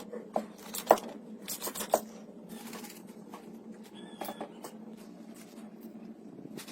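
Clicks, knocks and scraping, most likely hand tools at work, over a steady low hum. The clicks come thickest in the first two seconds, then thin out to scattered taps.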